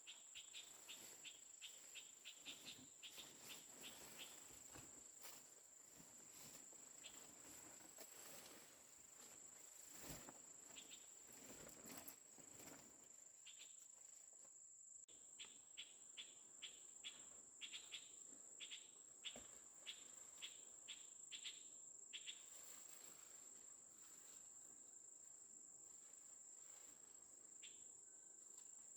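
Faint insects in the forest: a steady, high-pitched insect drone. Twice it is joined by runs of rapid, evenly spaced chirps, one in the first few seconds and another about halfway through.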